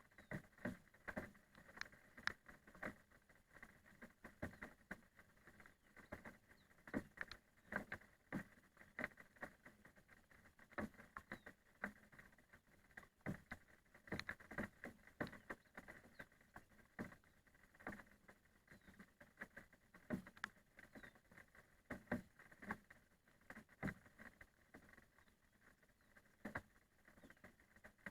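Scattered raindrops tapping, a few irregular drops a second at varying strength, faint overall.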